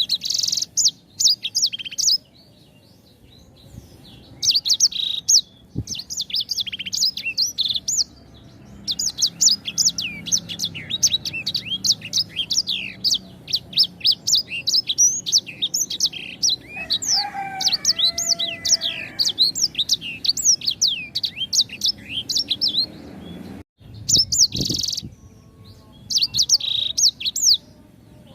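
Sanger, a caged songbird, singing vigorously in phrases of rapid, high chirps and trills with short pauses between them. Midway, a lower warbled phrase runs under the chirping.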